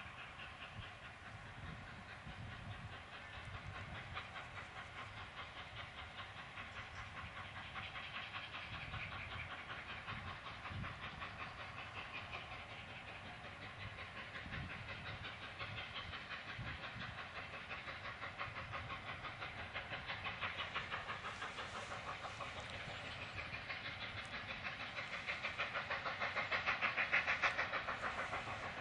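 Passenger coaches of a steam-hauled train rolling past, their wheels clattering on the rails in a fast, steady rhythm. The sound swells near the end.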